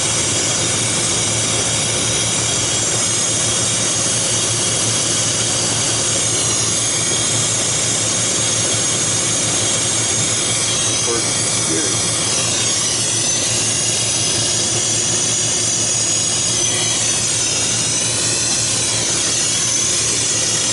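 Gas torch flame hissing steadily as it heats a copper refrigeration line joint for soldering.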